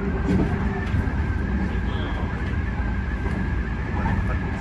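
Odakyu 3000-series electric train running at speed, heard from behind the cab: a heavy steady rumble of wheels on rail with a high, steady wind whistle over it.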